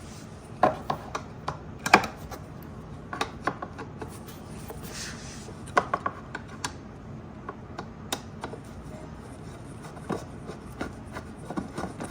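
A Phillips screwdriver backing a screw out of the Razor MX125's plastic body cover. It makes irregular clicks and short scraping, rubbing noises.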